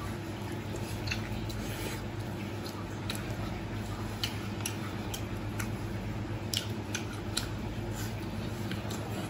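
Close-up chewing of crispy fried chicken legs: irregular sharp crunches and mouth clicks, spaced a second or so apart, over a steady low hum.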